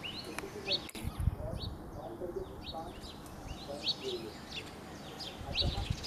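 Small birds chirping in short, high calls repeated several times a second, with a brief low rumble about a second in and again near the end.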